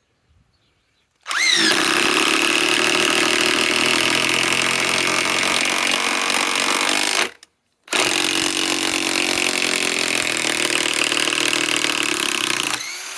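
DeWalt DCF891 mid-torque cordless impact wrench on a 1.7 Ah PowerStack battery, hammering on a 10-inch lag bolt in two runs: it spins up with a rising whine about a second in and hammers for about six seconds, pauses briefly, then hammers again for about five seconds.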